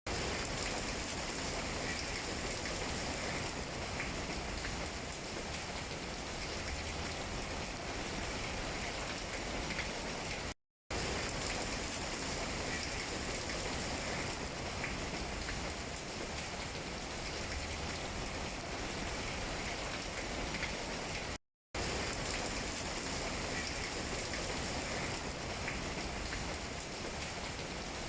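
Steady rain falling on tree leaves, an even hiss with scattered drop ticks. The sound cuts to silence briefly twice, about 11 and 22 seconds in.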